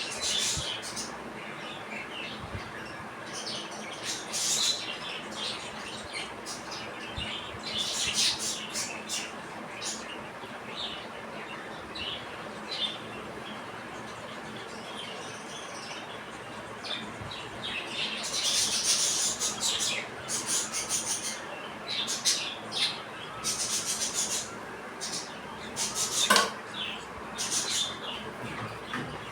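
Budgies chirping and chattering in short, high-pitched bursts, busiest in the second half.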